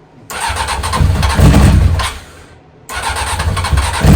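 The inline-four engine of a 1997 Honda CBR900RR Fireblade being cranked on its electric starter in two bursts of about two seconds each, with a short pause between, and not running on. These are attempts to start it after three years standing unused.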